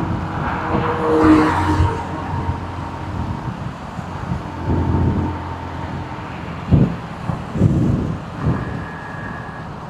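Motorcycle riding along the road: engine running and wind rushing, heard through a microphone inside the rider's helmet, with a pitched engine note about a second in and a few brief low thumps in the second half.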